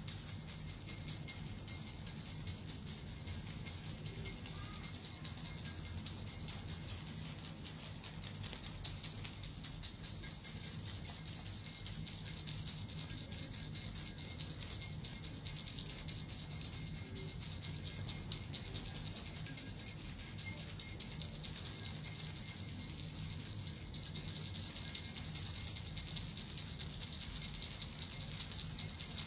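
Small jingle bells (suzu) shaken continuously, a dense steady high jingling with a fast shimmer and no pauses.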